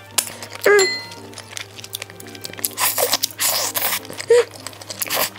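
Close-miked eating: crunchy bites and chewing in a few bursts, the densest in the middle, over soft background music.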